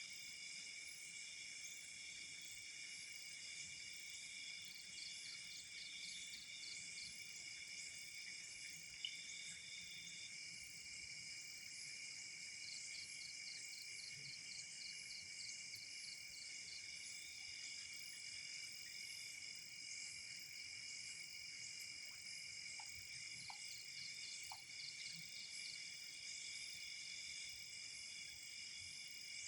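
Night chorus of crickets and other insects: several steady high trills overlap, with trains of rapid pulsed chirps coming and going. A single sharp click about nine seconds in, and a few faint ticks later on.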